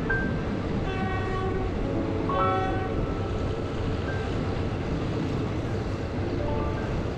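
Passenger train running along the line, heard from inside a carriage: a steady rumble and rattle of the coach on the rails. Two short high, pitched tones sound over it, about a second and two and a half seconds in.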